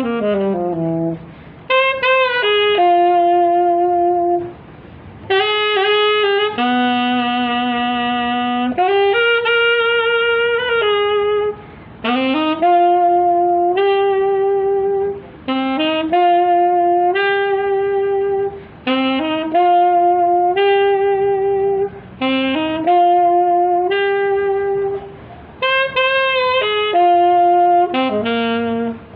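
Saxophone playing a slow melody, one sustained note after another, in phrases separated by brief breaths.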